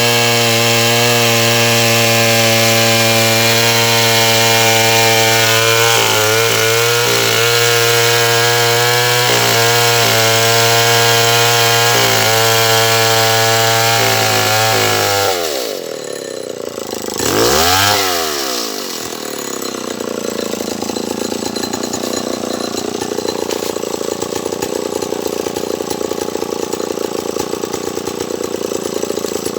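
Stihl 070 two-stroke chainsaw running at full throttle as it cuts wood, its pitch dipping briefly a few times under load. About halfway through, the revs drop away, rise once in a short blip and fall back to idle.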